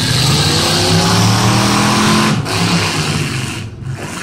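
Engines of full-size demolition derby cars revving hard as the cars shove against each other in the dirt, the pitch climbing over the first two seconds, then breaking off briefly and coming back.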